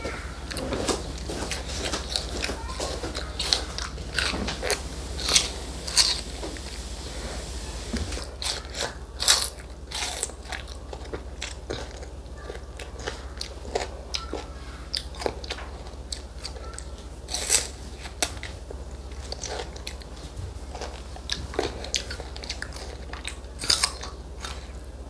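A toddler biting into and chewing crisp Korean melon (chamoe), a run of irregular wet crunches with a few louder bites among them.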